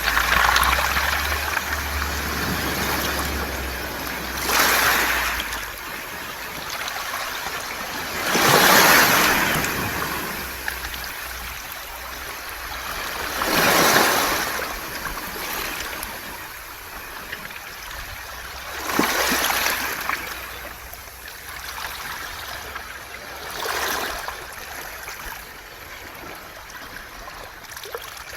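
Waves breaking on a beach of smooth round pebbles (mongdol), each backwash rolling the stones with a hissing rattle, surging about every five seconds.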